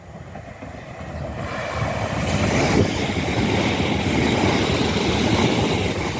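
A Gatwick Express Class 387 Electrostar electric train approaching and then passing close by. Its rumble grows over the first two seconds into a steady, loud rush of wheels on rail, with some clatter.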